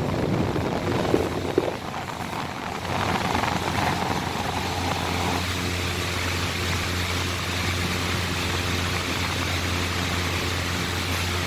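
Exhaust fans running: a steady electric hum with the rush of moving air, with a few knocks of handling in the first two seconds.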